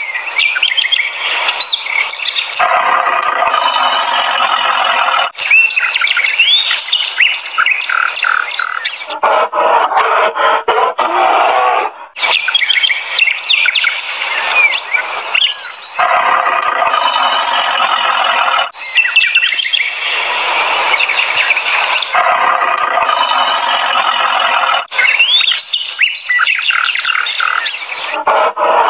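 Dense chorus of birds chirping and calling, in blocks that change abruptly about every three seconds.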